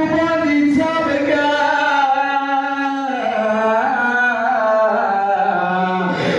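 A man chanting a slow mournful lament, such as a noha for Imam Husain, with long held notes that glide up and down.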